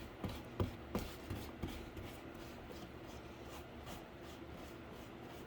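Faint rubbing and about five light knocks in the first two seconds, as of cardboard being handled, then only a low steady hum.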